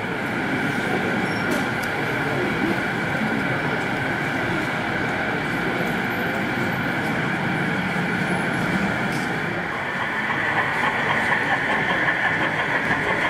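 Model train running on an exhibition layout: a steady mechanical whine with wheels on the track, which becomes a faster clicking about ten seconds in, over a low murmur of hall chatter.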